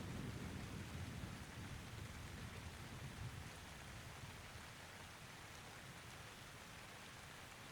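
Steady rain, with the low rumble of thunder dying away over the first few seconds.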